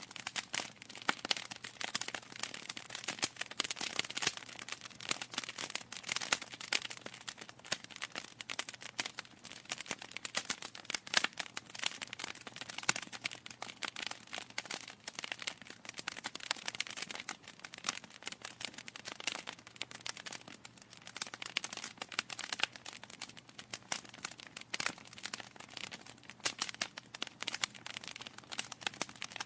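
Wood fire burning in a fireplace, crackling steadily with a dense, irregular stream of sharp pops and snaps.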